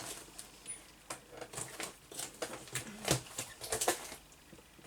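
Scraps of paper rustling and crinkling as they are handled, in short irregular bursts.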